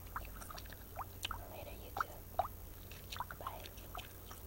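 Irregular small wet clicks and plinks close to the microphone, about a dozen in a few seconds, several with a quick rising pitch, over a low steady hum.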